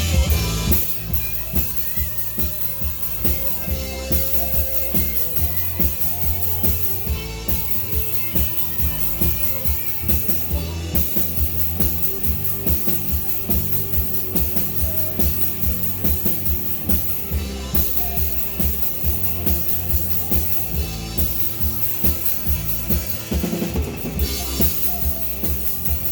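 A live rock band playing an instrumental passage with no vocals. A drum kit keeps a steady beat of kick and snare over a heavy bass line.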